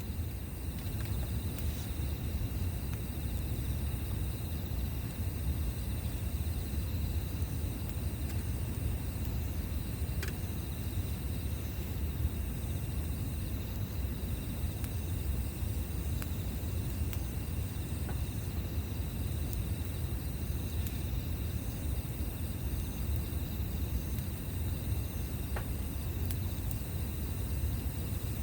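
Campfire burning with a steady low rumble and a few sharp pops, while insects trill steadily in the background, the high trill broken by short gaps every second or two.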